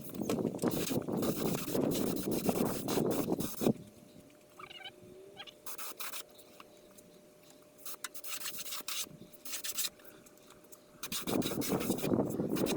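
Scratchy hand rubbing or scraping strokes on a surface, in two spells with a pause of several seconds between them.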